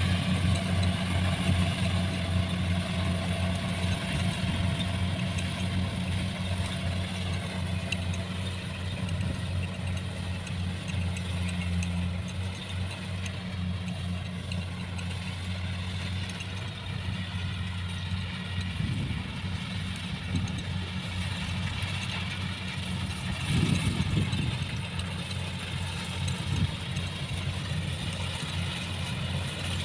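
Engine of a rice-harvesting machine running steadily as a low, constant drone, with a couple of brief louder surges in the second half.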